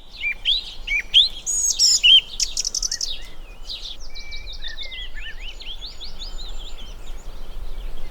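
Several songbirds singing and calling together: a busy mix of short rising whistles, chirps and fast trills, loudest in the first few seconds.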